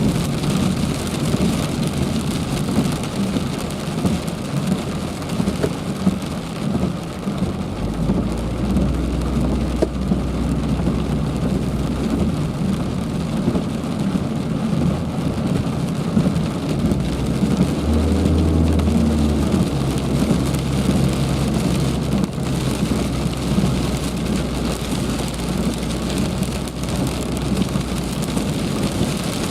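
Heavy rain falling, a steady dense patter. A low rumble comes in about a quarter of the way through and swells briefly around two-thirds through.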